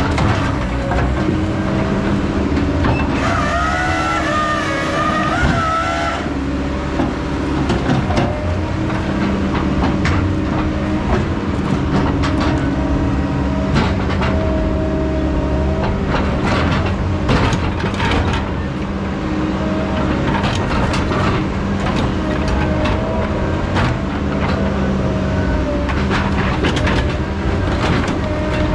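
Heavy diesel logging machinery running steadily, with a wavering whine from about three to six seconds in and frequent short knocks and clanks throughout.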